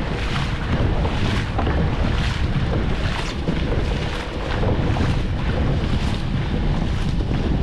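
Dragon boat paddles striking and pulling through the water in a steady rhythm, a splash a little under once a second, over steady wind noise buffeting the microphone.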